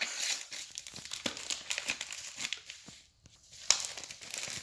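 Packaging crinkling and tearing as tape is pulled off toy parts, in irregular crackles with a brief pause about three seconds in.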